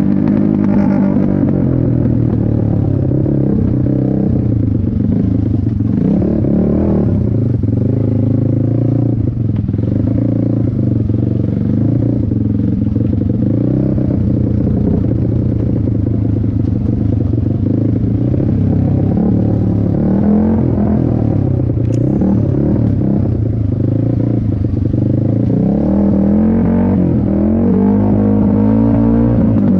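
Race quad's engine running hard, its pitch rising and falling over and over as it accelerates and backs off.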